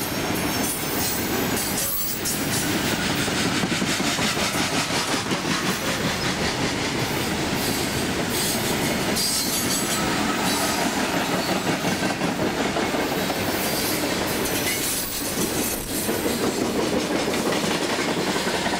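Loaded coal cars of a freight train rolling past at speed: a steady rumble and clatter of steel wheels on the rails.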